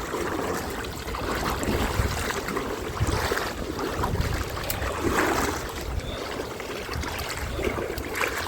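A person wading through a river, the water sloshing around the legs in repeated surges every second or two, over a low rumble.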